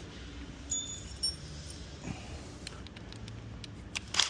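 A few light metallic clinks and clicks from tools being handled against steel, some with a brief high ring about a second in and a sharper click near the end, over a faint low hum.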